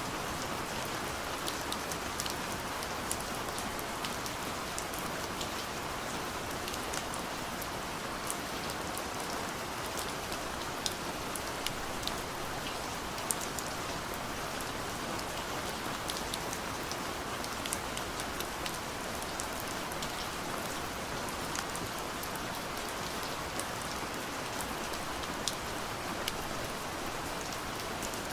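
Steady soft rain falling on a window, an even hiss with many scattered drop ticks on the glass.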